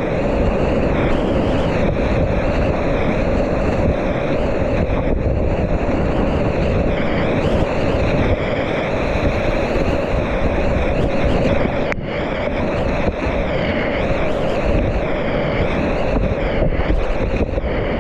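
Whitewater rushing steadily around a kayak running a rapid, with wind buffeting the microphone.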